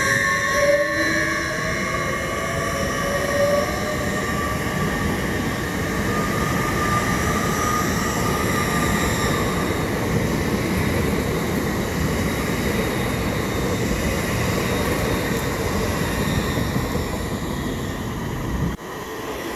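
LNER Azuma high-speed train passing close by: a steady rumble of wheels on rail. A motor whine rises in pitch over the first few seconds. The sound drops away abruptly near the end.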